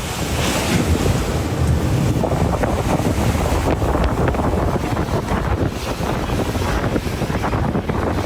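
Strong wind buffeting the microphone over the steady rush of rough sea and breaking waves.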